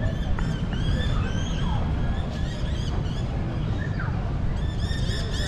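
Small birds chirping in quick series of short, arched calls, busiest near the start and again near the end, over a steady low rumble.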